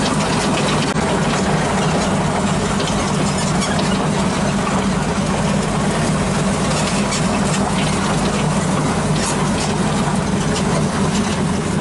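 383 stroker V8 engine running steadily: an even low drone with a hissy, ticking top end.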